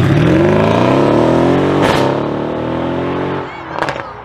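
Mercedes coupe-style SUV's engine revving hard as it pulls away, its pitch climbing for about two seconds, then a sharp crack at an upshift and a second climb. It eases off after about three and a half seconds, with a single loud exhaust pop just before the end.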